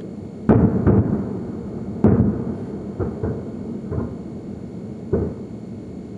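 Shells of a large fireworks display bursting about 5 km away, arriving as dull, low booms with a rolling echo. About seven booms in six seconds; the strongest come within the first two seconds, the later ones fainter.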